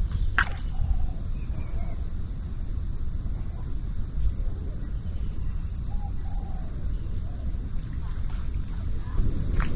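Outdoor forest ambience: a steady high-pitched insect drone over a low rumble, with a few faint short calls in the middle and a sharp click just after the start and again near the end.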